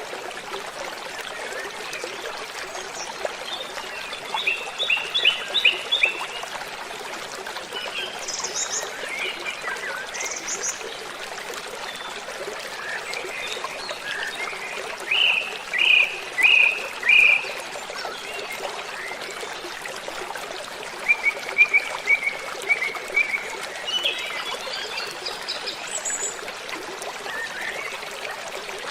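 Steady rush of a waterfall with birds singing over it: a run of short repeated notes about five seconds in, four louder notes around the middle, and a quick string of chirps a little later.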